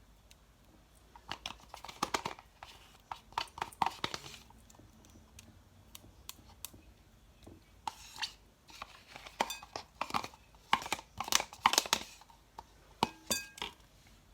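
Kitchen handling noises while cream is added to a bowl of condensed milk and lemon juice: two runs of quick clicks, taps and clinks of containers and utensils against the bowl, with a short ringing clink near the end.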